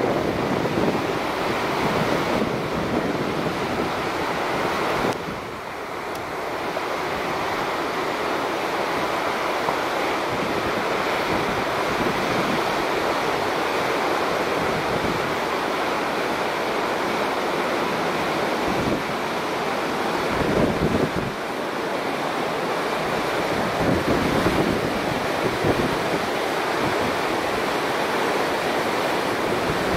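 Steady rushing of a flood-swollen river in spate after a typhoon, with wind gusting on the microphone in low buffeting rumbles several times.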